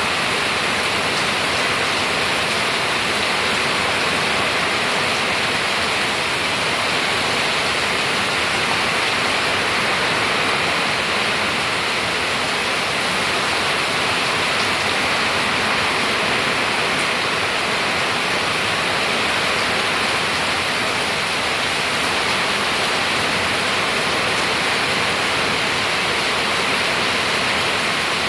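Steady, heavy rainfall: a continuous even hiss of rain with no pauses or distinct drops standing out.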